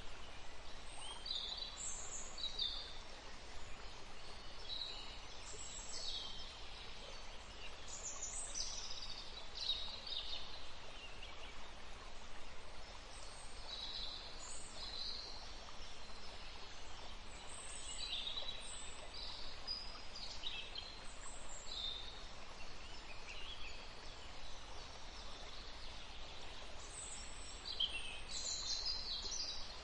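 Several songbirds chirping and trilling in quick, scattered high-pitched phrases over a steady faint background hiss of forest ambience.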